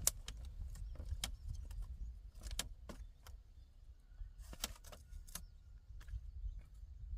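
Scattered light clicks and knocks, a few to a second, over a low steady rumble: hand work with building materials and tools.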